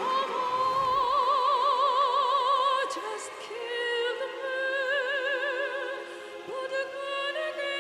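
Woman singing in operatic style with wide vibrato: one long high note held for nearly three seconds, then a run of shorter sustained notes.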